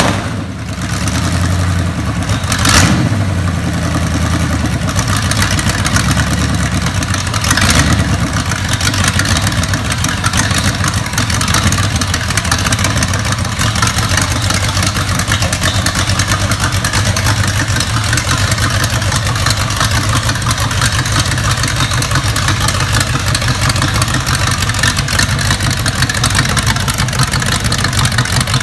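Freshly rebuilt 350 small-block Chevy V8, with an Edelbrock intake and carburettor and a GM 327/365-horsepower-spec cam, running on an engine break-in stand during its first run. It revs up briefly twice in the first eight seconds, then settles into steady running.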